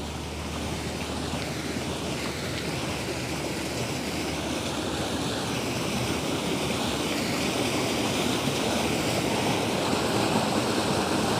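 Water rushing and splashing at a water wheel, a steady noise that grows gradually louder.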